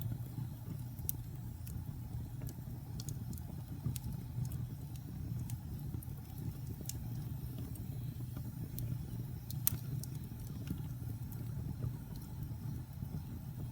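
Wood fire burning in a fireplace: a steady low rumble of flames with scattered sharp crackles and pops, one louder pop nearly ten seconds in.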